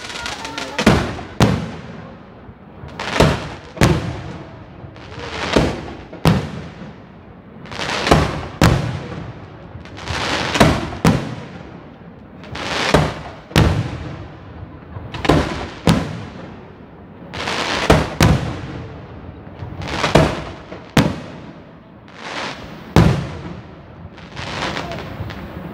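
Aerial firework shells bursting in pairs of bangs about half a second apart, a new pair every two and a half seconds or so, each bang trailing off in an echo.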